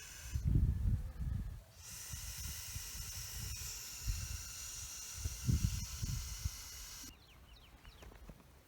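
Forest ambience: a steady high insect hiss, with low rumbling twice. About seven seconds in it cuts to quieter background with a few short falling bird chirps.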